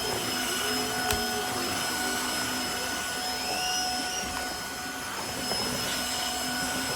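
Tineco iFLOOR 3 Breeze cordless wet-dry vacuum mop running steadily, a motor whine of several fixed tones over a rush of suction, with a single click about a second in.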